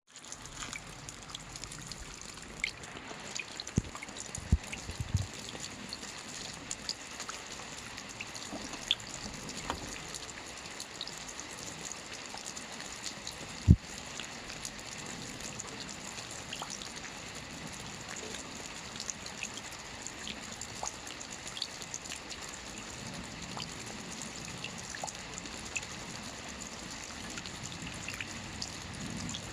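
Light rain falling steadily, a soft even hiss with many scattered individual drop patters. A few louder single drips land as thuds, the loudest about 14 seconds in.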